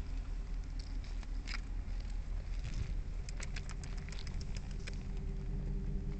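Steady low hum of an idling vehicle engine, with a run of quick, light clicks and crackles from about three to five seconds in.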